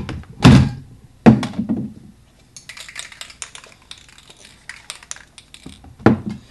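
Spray paint cans being handled: two loud knocks, then about three seconds of fast, light clattering, and another knock near the end.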